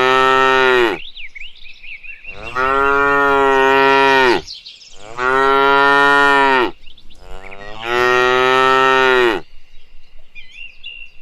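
An animal's long, drawn-out calls: the end of one call, then three more, each lasting about two seconds and dropping in pitch as it ends. Small birds chirp in the gaps between them and near the end.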